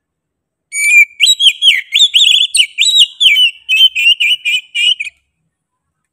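Oriental magpie-robin (kacer) in full song: one phrase of rapid, varied whistled notes that starts about a second in and lasts about four seconds.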